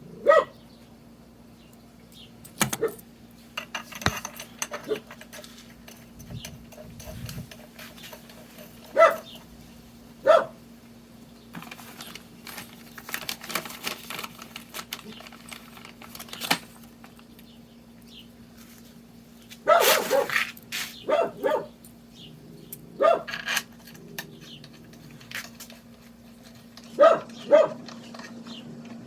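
A dog barking in short, sharp barks, singly and in small groups, with a quick run of barks about two-thirds of the way through. Between the barks there is some clatter and a steady low hum.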